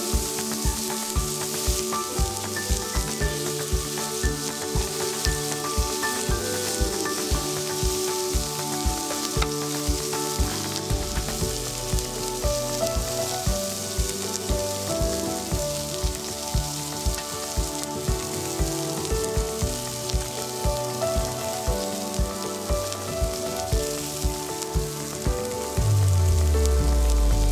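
Beef and vegetables sizzling on a hot griddle pan, under background music with a steady beat; the music swells near the end with a low sliding bass note.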